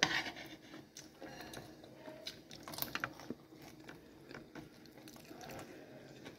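A person chewing and biting food close to the microphone, with small wet clicks and crunches, after a short knock right at the start.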